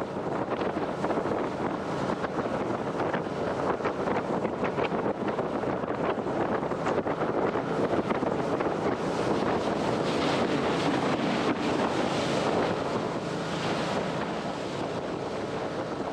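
A jet boat under way at speed: a steady rush of wind buffeting the microphone, mixed with water noise from the hull and jet, with no clear engine note standing out.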